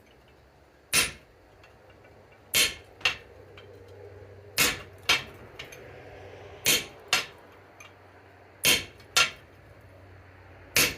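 Hammer blows cutting hot steel on the cutting block of a London-pattern anvil, struck in pairs about every two seconds (a heavy blow, then a lighter one half a second later), each with a short metallic ring, over a faint steady hum.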